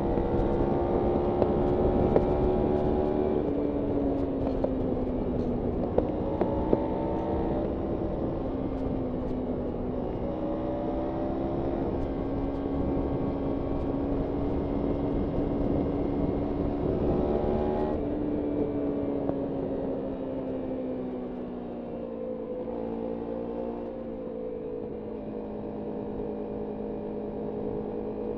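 Kawasaki Ninja 300 parallel-twin engine under way, its note rising and falling with throttle and gearing, with a marked drop about two-thirds of the way through. Road and wind noise lie underneath, with a few brief ticks near the start.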